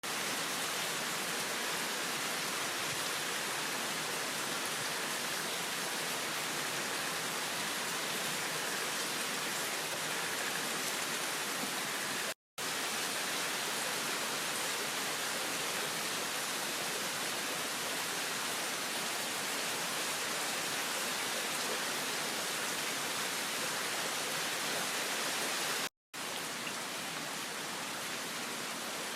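Heavy rain falling in a downpour, a steady dense hiss, broken twice by a brief moment of silence.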